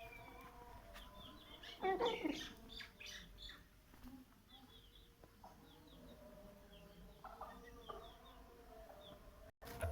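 Birds chirping with many short, high chirps, and a brief louder call with a falling pitch about two seconds in.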